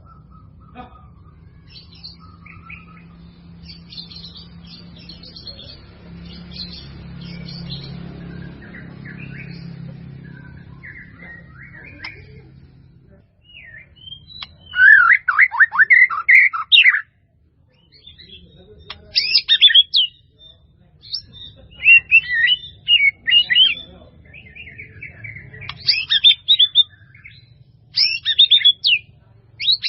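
White-rumped shama (murai batu) singing: faint, scattered phrases over a low hum at first, then from about halfway loud, varied phrases of rapid whistles and chirps with short pauses between them.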